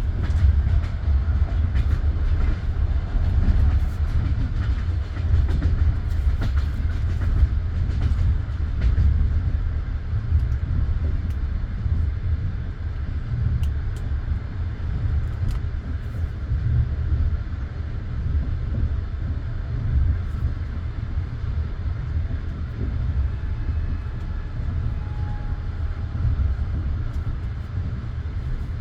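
Passenger train carriage rumbling over the rails, heard from inside the car: a steady low rumble with occasional faint clicks, growing a little quieter over the stretch.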